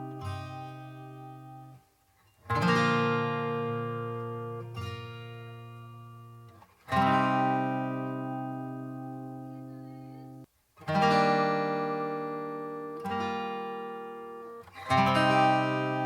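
Background music on acoustic guitar: slow chords struck about every four seconds and left to ring out, with softer single notes between them.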